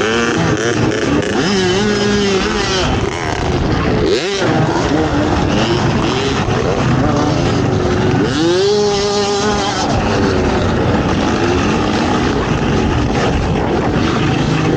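ATV engine racing off-road, its pitch repeatedly rising and falling with the throttle. There is a sharp climb in revs about four seconds in, and another rise and fall around nine seconds.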